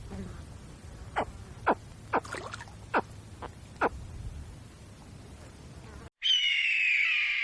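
An animal calling: a string of short, sharp chirps, each dropping quickly in pitch, then, after a sudden cut, a louder, harsh, raspy call with a slowly falling tone near the end.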